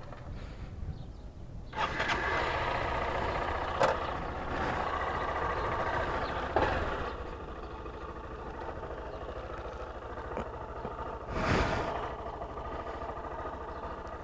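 Honda NXR 160 Bros single-cylinder motorcycle engine running with a steady rumble. It gets louder and fuller about two seconds in, and a short burst of noise comes near the end.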